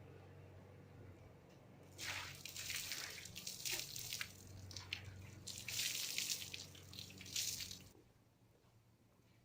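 Aerosol spray-paint can spraying in a series of hissing bursts, the longest near the end, which stop suddenly about a second and a half before the end.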